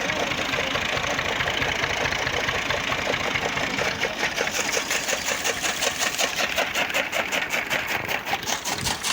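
Tractor engine running steadily while driving a two-blade toka chaff cutter through its shaft, with a fast, even machine beat that grows crisper about halfway through.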